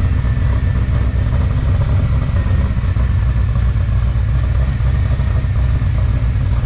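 LS3 V8 in an LS-swapped BMW E46 running steadily through its newly built exhaust, a deep, even rumble with no revving.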